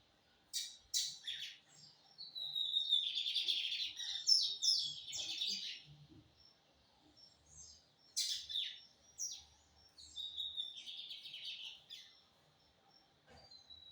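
Lined seedeater (bigodinho) singing: several phrases of fast, high chirps and sharp buzzy notes, with short pauses between them.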